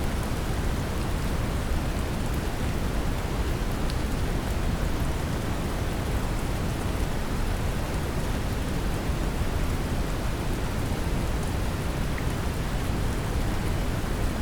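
Steady brown noise, a deep low hiss heaviest in the bass, mixed with gentle rain falling, with faint scattered drop ticks.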